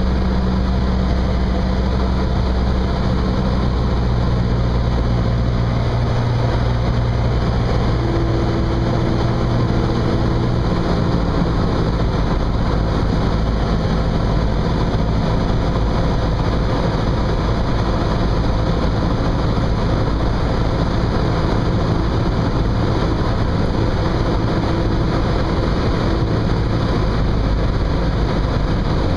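Cessna 172's piston engine and propeller droning steadily in flight. The low engine note shifts a few seconds in and again about eleven seconds in.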